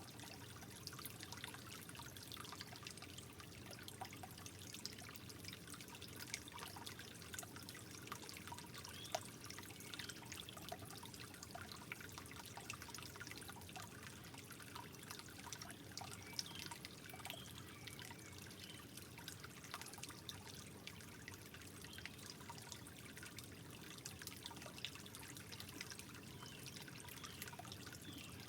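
Soft, steady trickle of water, with small drips and gurgles throughout.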